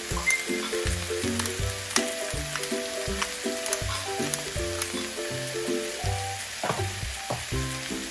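Squash and ground meat sizzling as they fry in a pan: a steady crackling hiss, over background music with a regular beat of low notes.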